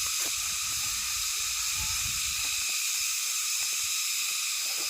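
A steady, even insect chorus at several high pitches, with irregular low thuds and rumbles from walking and handling near the microphone.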